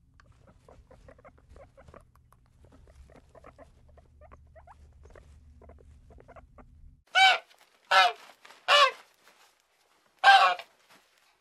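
Faint squeaking and pattering over a low hum, then four loud, short animal calls, each under half a second, high and pitched, starting about seven seconds in.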